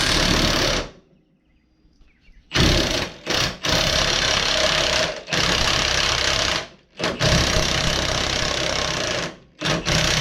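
Pneumatic impact wrench hammering in repeated bursts of one to two seconds with short pauses, driving a large gear puller against a stuck pulley.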